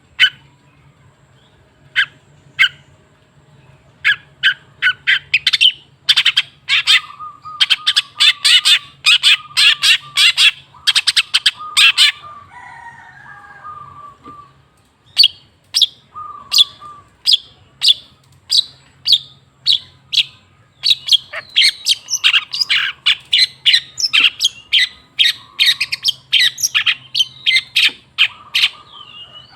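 Long-tailed shrike (cendet) calling with sharp, harsh notes. There are a few spaced calls at first, then long rapid runs, with some lower notes mixed in.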